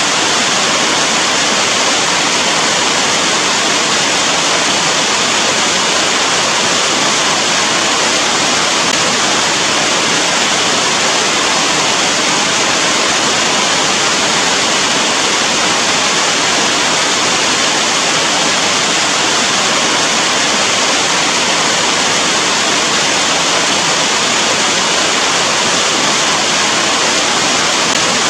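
Steady rain falling, an even, unbroken hiss with no single drops or other events standing out.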